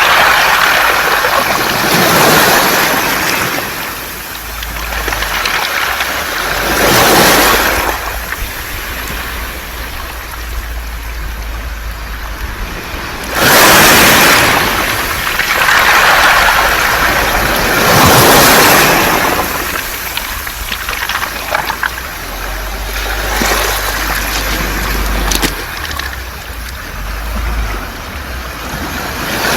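Surf washing up and drawing back over a beach of smooth round pebbles, the stones rattling in the water, in surges every few seconds.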